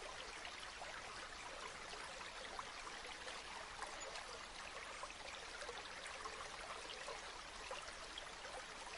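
Stream flowing steadily, a faint, even babble of running water.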